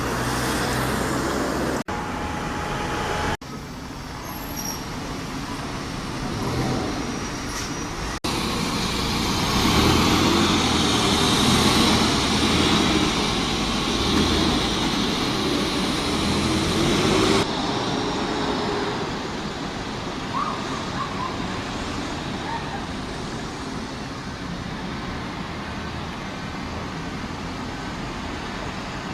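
Vehicle engines and traffic noise, changing abruptly a few times, loudest in the middle stretch.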